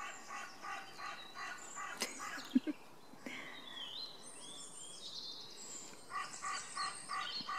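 Woodland birds calling: a run of short repeated notes, about four a second, heard twice, with a higher warbling song between the runs. A single sharp click sounds about two seconds in.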